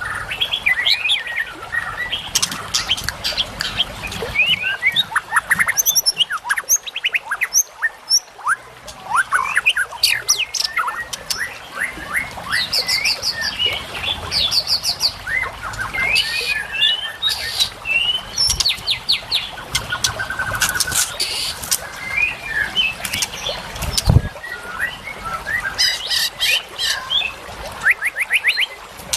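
Recorded birdsong of several small songbirds overlapping without pause: quick chirps, sharp downward-sweeping whistles and fast rattling trills, as in a songbird training (masteran) track. A single low thud about three-quarters of the way through.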